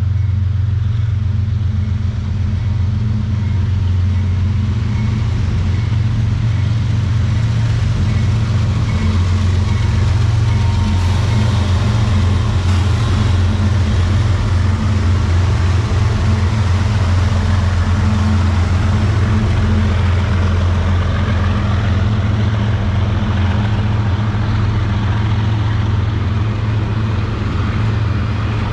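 CSX intermodal freight train rolling past at close range: a steady rumble of wheels on rail with a low drone, unbroken and even in level.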